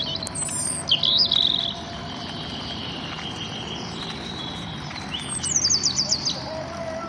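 Songbirds singing: a quick series of high repeated notes in the first second or two, a held high note, then another rapid run of notes around five to six seconds in.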